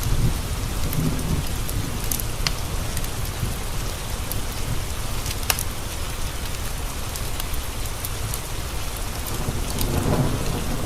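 Steady rain pattering on window glass under a low, continuous thunder rumble that swells near the end, with scattered sharp crackles from a wood fire.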